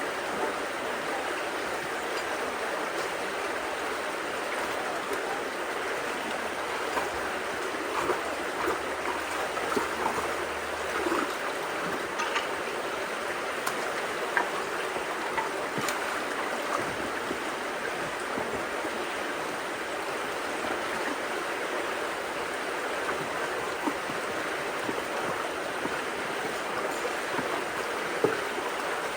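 Creek water rushing steadily through and around a debris-clogged road culvert after heavy rain, with a few light knocks here and there.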